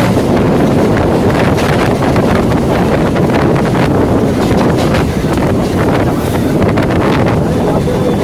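Steady rumble and rattle of a running EMU local train heard from on board, with wind buffeting the microphone.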